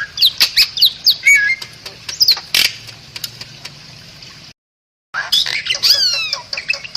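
Bali myna singing a rapid series of sharp chirps, squawks and whistled glides. The song breaks off in a half-second gap of dead silence about four and a half seconds in, then resumes with a run of falling whistles.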